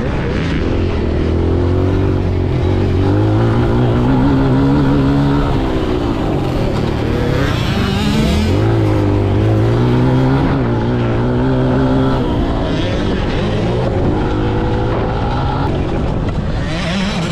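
Kawasaki KLX140G's four-stroke single-cylinder engine under riding load, revving up and holding, then falling off. About eight seconds in the revs drop sharply and climb again as the throttle is rolled back on, and there is another drop near the end.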